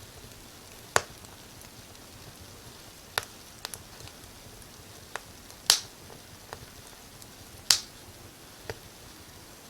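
Fireplace fire crackling: sharp pops at irregular intervals, about nine of them, over a faint steady hiss.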